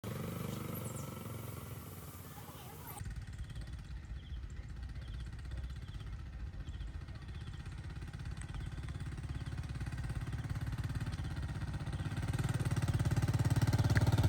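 A low, rhythmic engine running, growing steadily louder toward the end, after a change of sound about three seconds in.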